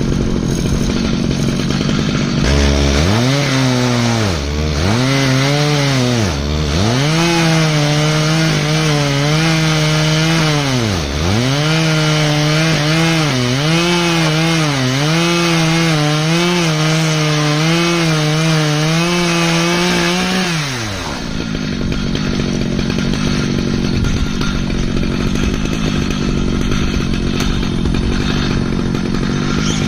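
Stihl MS 881 two-stroke chainsaw on an Alaskan mill, cutting slabs from an ash log. The engine pitch dips sharply several times as it bogs under load, then holds fairly steady. About 21 seconds in the engine tone drops away, leaving a steady noisy rush.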